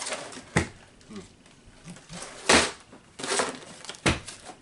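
Cardboard snack box and its paper packing being handled and opened: a handful of short crinkling, scraping noises with quiet between them.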